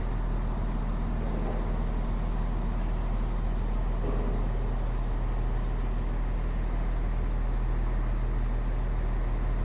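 Steady low hum of an idling engine, most likely a train standing in the station, holding the same pitch and level throughout.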